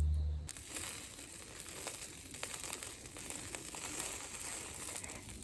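Spicy chicken sizzling and crackling as it grills over charcoal, a steady hiss with many fine pops.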